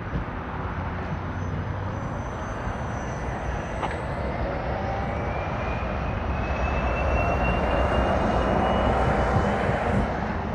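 Distant engine drone swelling gradually over several seconds to a peak near the end, with a faint whine slowly rising in pitch and a single small tick about four seconds in.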